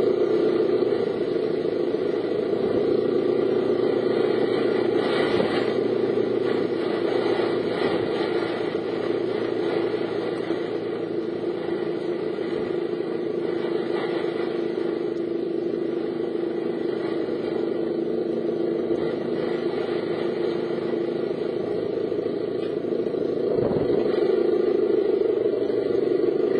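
A car driving, with a steady engine and road drone.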